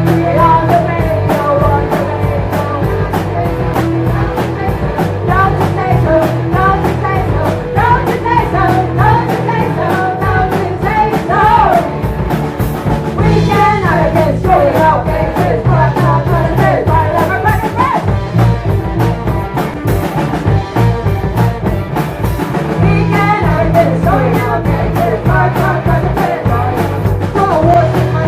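Live rock band playing loud, with a fast steady drum beat, bass, and a wavering sung or lead melody line.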